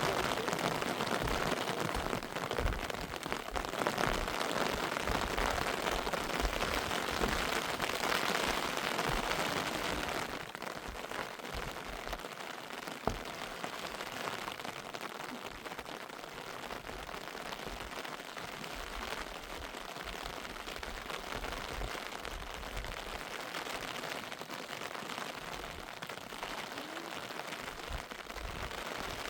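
Steady heavy rain falling, a dense even hiss that eases a step about ten seconds in, with a single sharp click about a third of the way through.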